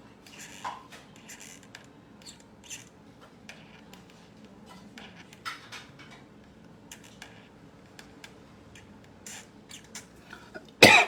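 Pen strokes scratching across paper, one short stroke after another, as characters are drawn. Near the end comes a single loud knock.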